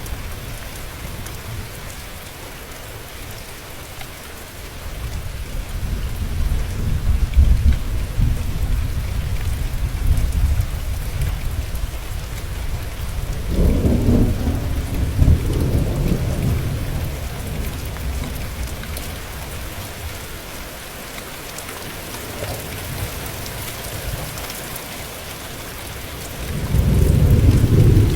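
Steady rain falling, with thunder rumbling low several times: a long rolling rumble from about five seconds in, another about halfway through, and the loudest one near the end.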